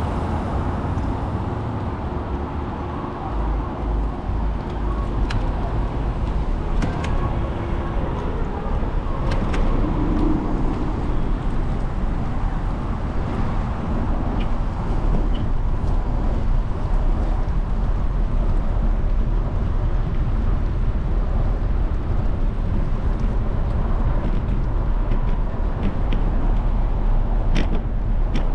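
Steady road and wind noise from a bicycle ride on wet roads in drizzle, heavy in low rumble, with a few light clicks.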